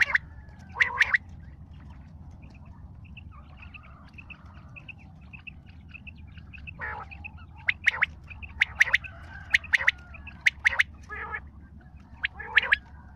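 Bird calling in short, harsh squawking notes, a few calls about a second in, then a run of them from about seven to eleven seconds, with faint high chirps in the gap between.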